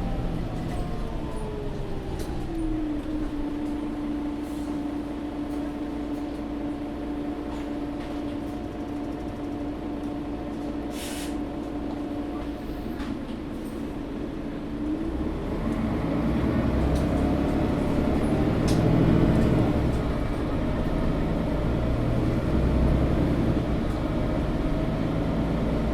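Interior of a Mercedes-Benz O530 G Citaro articulated city bus in motion. Its running note falls over the first few seconds as it slows, then holds a steady hum, with a short hiss about eleven seconds in. From about fifteen seconds it grows louder and rises in pitch as the bus pulls away and accelerates.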